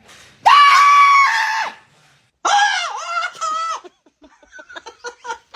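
A loud, high-pitched scream held for about a second, then a second scream that wavers and breaks up. It is followed by a quick run of short, fainter chuckle-like bursts.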